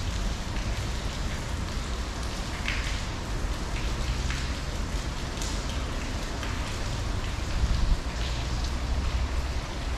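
Steady rain falling on the river and wet concrete, with scattered sharper drops and a low rumble underneath.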